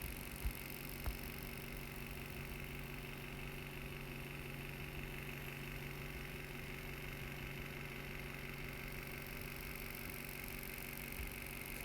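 Steady low background hum and hiss with no clear source, with two light clicks about half a second and a second in.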